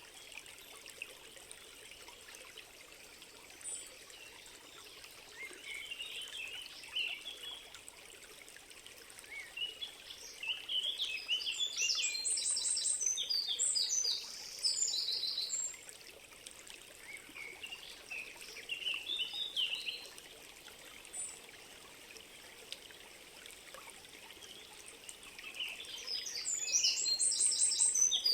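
Songbirds singing in several phrases of quick, high notes over a steady trickling stream. The loudest song comes near the middle and again near the end.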